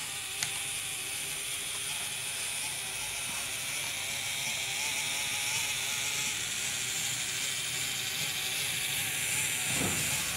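Bachmann HO-scale three-truck Shay model locomotive running without a sound decoder: the steady mechanical whir of its motor and geared drive, growing a little louder, with a single click about half a second in.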